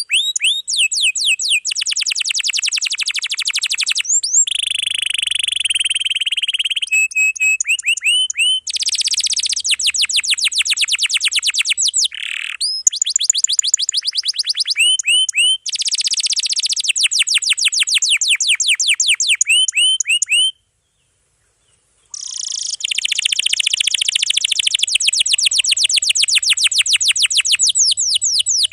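Canary in full song: long, dense rolls of rapid high-pitched trills, one run after another, broken once by a silence of about a second and a half about two-thirds of the way through before the trilling starts again.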